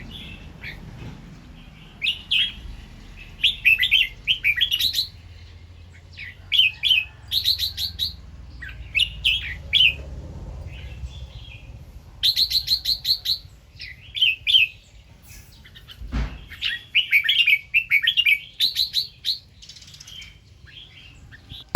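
Red-whiskered bulbul singing: short phrases of quick, bright chirping notes repeated in bouts every second or two. A single dull thump about two-thirds of the way through.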